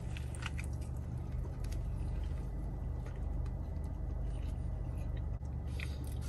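A person chewing a mouthful of crispy fried chicken sandwich, faint crunches and small clicks scattered through, over a steady low hum in a car's cabin.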